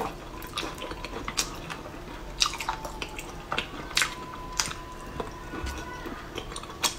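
Close-miked eating of soft braised shellfish meat: scattered wet mouth clicks and smacks while chewing.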